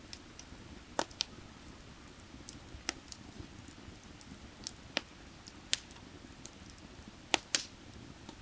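Burning firewood crackling, with sharp pops at irregular intervals and a pair of the loudest close together near the end. Beneath it runs the low, steady rush of creek water.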